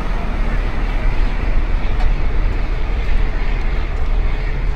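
Steady outdoor city noise dominated by a low rumble, like vehicle traffic, with no single distinct event.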